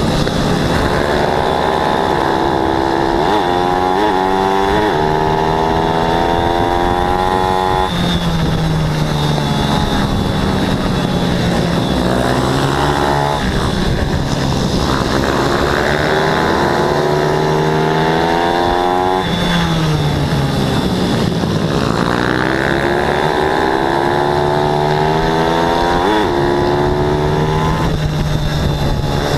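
Small single-cylinder four-stroke pit bike engines racing flat out. The pitch climbs steadily for several seconds, drops off sharply, then climbs again as the bikes accelerate and ease off through the corners.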